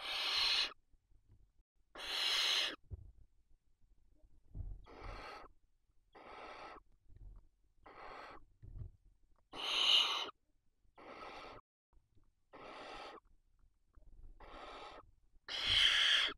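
Barn owl chicks giving their rasping, hissing begging calls: about a dozen separate hisses, each under a second long, some louder than others, with a few faint low bumps in between.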